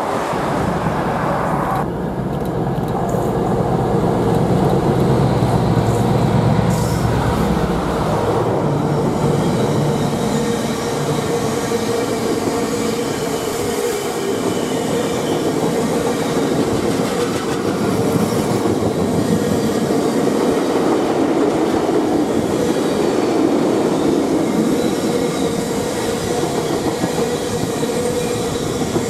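A train passing close by on the main line: a deep rumble for roughly the first eight seconds, then a long steady rush of wheels on rail with a constant hum running through it.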